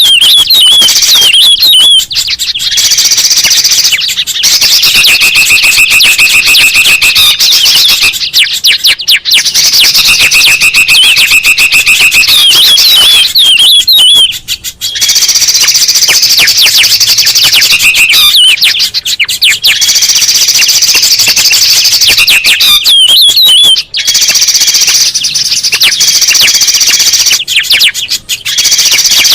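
Loud, dense bird-lure track of several songbirds calling over one another: fast wavy chirps and whistles, with a buzzing trill held for a couple of seconds twice near the middle. It breaks off briefly now and then.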